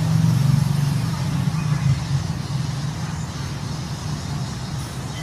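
Low, steady rumble of a motor vehicle engine in road traffic, loudest at the start and slowly fading away.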